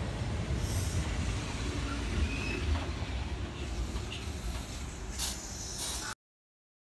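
Kintetsu 2430 series electric train rolling slowly past a platform: a steady low rumble with a light hiss and a couple of sharp high clicks near the end. The sound cuts off suddenly about six seconds in.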